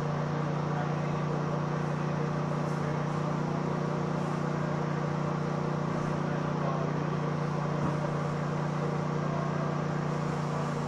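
Metrorail commuter train running: a steady low hum over an even rush of noise.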